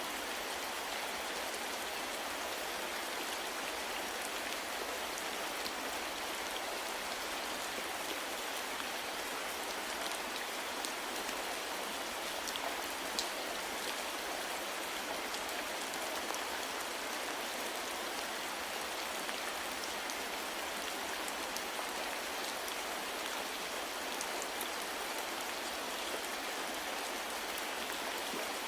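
Steady rain falling, an even hiss with a few faint individual drop ticks scattered through it.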